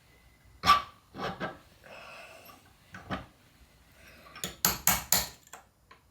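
Steel gearbox parts clicking and clinking against each other as they are handled and fitted onto a Land Rover Series gearbox mainshaft: one sharp click under a second in, a few lighter clicks, then a quick run of clinks near the end.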